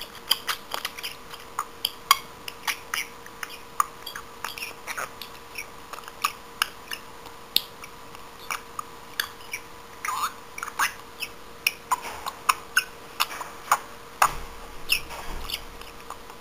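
Budgerigar chattering in a rapid, irregular run of short chirps and clicks, a few a second.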